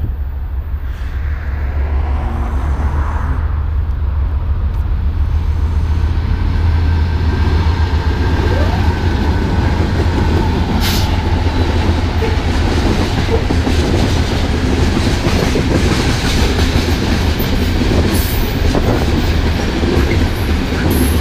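Diesel locomotives of a BNSF freight train running up and passing close by, a deep engine rumble that builds over the first couple of seconds. Loaded crude-oil tank cars then roll past with a steady rattle of wheels on the rails, and there is one sharp knock about eleven seconds in.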